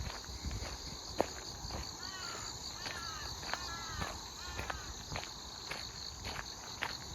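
Grass insects such as crickets chirping steadily in a high, pulsing trill, with a walker's footsteps about twice a second. A few short falling calls, likely from a bird, come in the middle.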